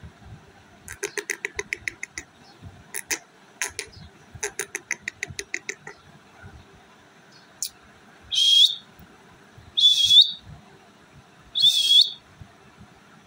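Indian ringneck parrot giving quick runs of clicking chatter, then three loud, harsh squawks about a second and a half apart.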